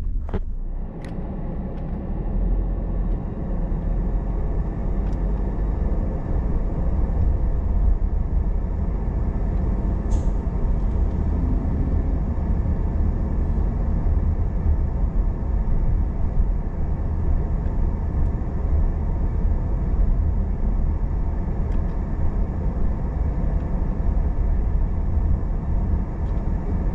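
Car driving at steady speed: continuous low rumble of road and engine noise, with a few brief clicks, one just after the start, one about a second in and one about ten seconds in.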